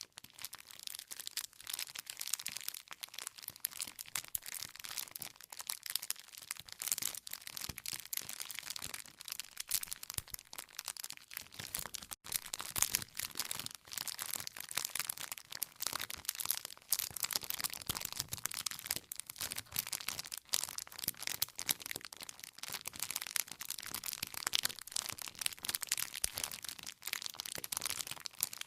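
Wood campfire crackling: dense, rapid crackles and pops of burning firewood that go on without pause, apart from a momentary gap about twelve seconds in.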